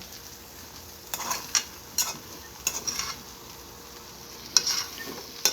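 Spoon stirring rice in a pot, with a series of short scrapes and knocks against the pot over a faint, steady sizzle from the low heat.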